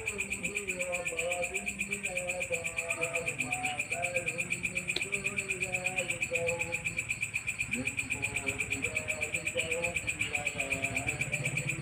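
Walang ecek insect calling: a steady, rapidly pulsing high buzz of about seven pulses a second, with fainter lower wavering sounds beneath it.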